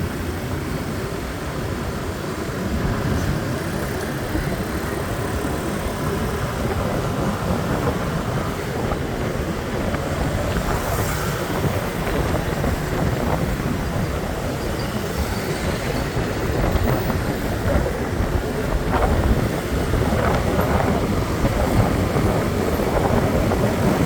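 Steady traffic and road noise heard from a moving motorbike in city traffic, with a low rumble from engines, tyres and wind on the microphone.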